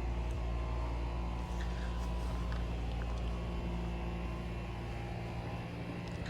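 Steady low hum of a car's engine and road noise heard from inside the cabin, easing slightly near the end.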